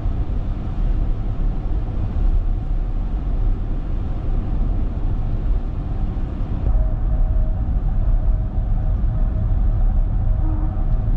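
Road noise inside a moving car's cabin: a steady low rumble of tyres and engine. The higher tyre hiss drops away about two thirds of the way through.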